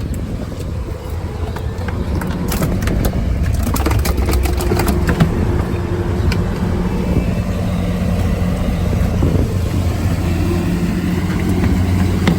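Boat's 250 outboard motor running steadily under way. A few clicks and knocks sound about two to four seconds in.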